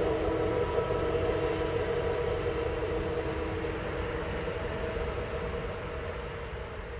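A train running past on the line and drawing away: a low rumble with a steady hum of several held tones, slowly getting quieter.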